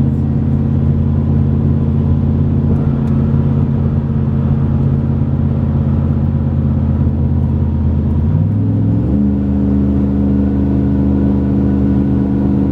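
Tow vehicle's engine and road noise while driving with a loaded livestock trailer, a steady drone whose engine note steps up in pitch about eight seconds in.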